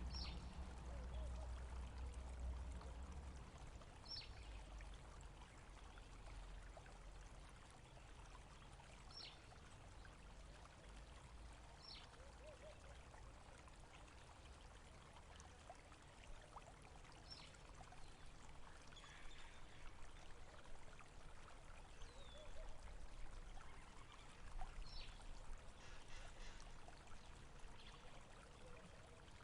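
Water trickling and running in a stream, faint and steady. A bird gives a short, high, downward-sliding call every few seconds.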